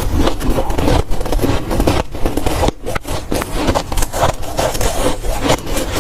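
Close-miked chewing and crunching of dry, powdery freezer frost, in quick irregular crunches several times a second with a brief pause a little under halfway through.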